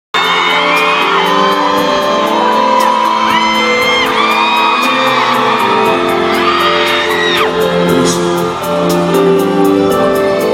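Live pop song from a concert hall PA with a steady beat, under long, high-pitched screams from a crowd of fans that rise, hold and fall.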